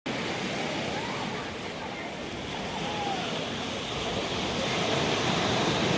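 A steady rush of moving water, slowly growing louder, with faint distant voices.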